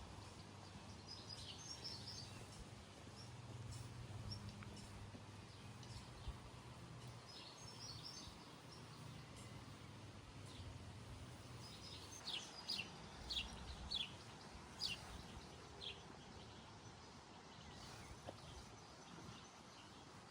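Birds chirping over faint outdoor background noise, with scattered short high calls and a run of louder, sharp downward chirps past the middle. A faint low hum runs under the first half.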